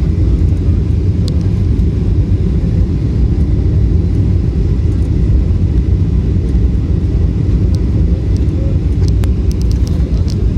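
Steady low rumble of a passenger airliner landing, with a few faint clicks near the end.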